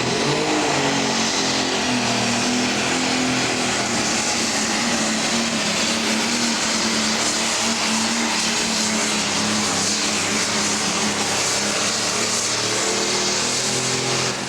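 Pro stock pulling tractor's turbocharged diesel engine running at full throttle as it drags the weight-transfer sled down the track, loud and steady in pitch throughout.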